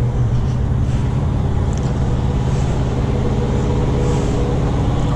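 A truck's diesel engine idling, a steady low drone that holds even throughout.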